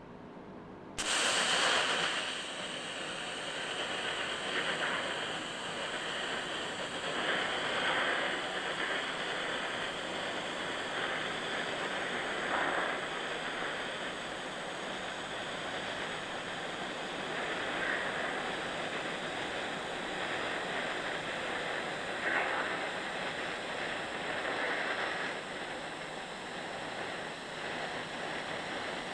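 Welding arc running a long continuous bead on a car's sheet-metal quarter panel: a steady hissing sizzle that starts suddenly about a second in, with a few brief louder swells.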